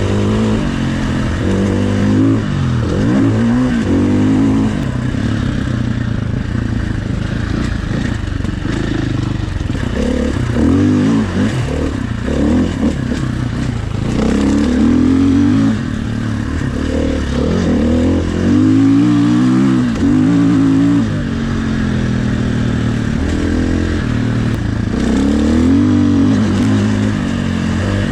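Dirt bike engine revving up and down over and over as it is ridden along a trail, the pitch rising and falling with each blip of the throttle.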